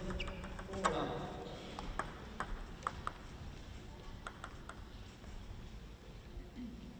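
Celluloid-type table tennis ball bouncing, a series of short, sharp ticks at uneven intervals, in a large hall with faint voices in the first second.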